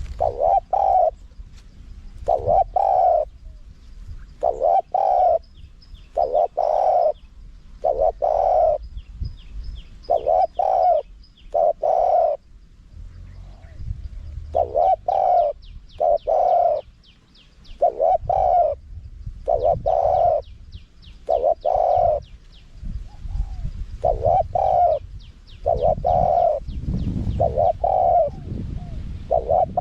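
Spotted dove cooing in the wild style, a series of deep coo phrases repeated every second or two. Faint high chirping from small birds runs underneath.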